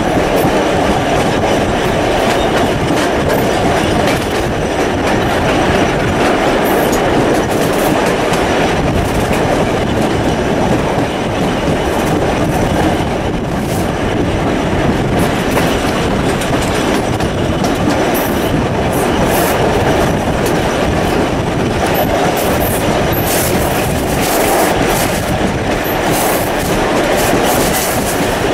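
Steam-hauled passenger train running along the line, heard from an open carriage window: a steady loud rumble of the carriage with wheels clicking over the rail joints. The clicks grow sharper near the end.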